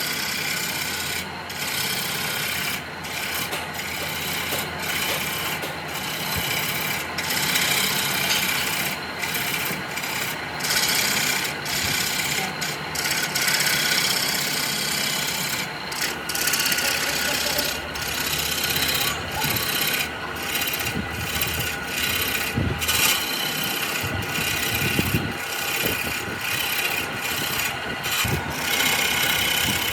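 Wood being abraded: a loud rough scraping noise that comes in irregular strokes with short breaks between them.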